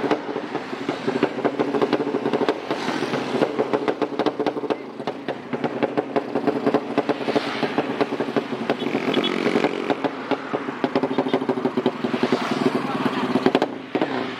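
Tuned drag-racing motorcycle engine running hard with rapid firing pulses, its pitch rising and falling as it is revved.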